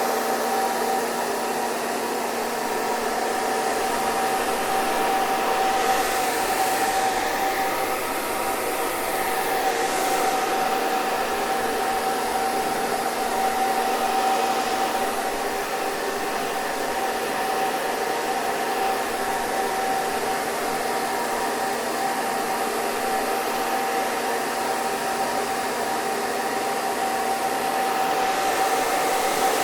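Hair dryer running steadily: an even airflow rush with a steady motor hum, a strong whine in the middle and a lower drone beneath it.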